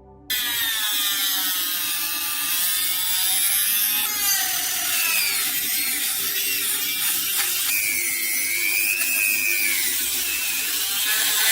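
Power tool working on metal: a steady abrasive hiss with a whine that wavers up and down in pitch. It cuts in abruptly and stops abruptly.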